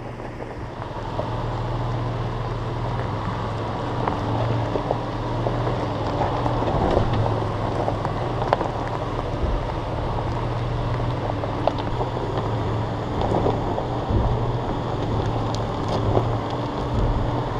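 Nissan Xterra's V6 engine running steadily at low speed while the truck crawls down a rocky dirt trail, with tyres crunching and popping over gravel and stones. The sound builds over the first second or two as the truck gets moving.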